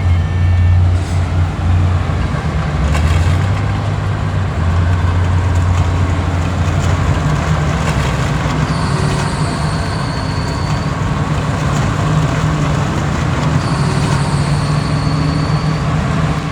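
Heavy diesel earthmoving machine running steadily under work, its engine note rising partway through. Two high, steady squeals of about two seconds each come in the second half.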